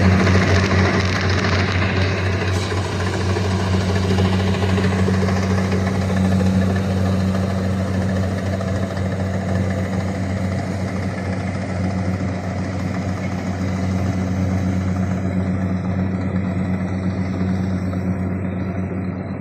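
Kubota DC-120X combine harvester's diesel engine and machinery running steadily, with a constant low engine drone under a dense clattering noise. The higher-pitched part of the noise fades over the last few seconds.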